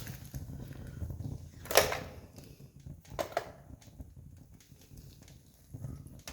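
Wood campfire burning, crackling with scattered sharp pops; one loud pop about two seconds in and another about a second later, over a low steady rumble.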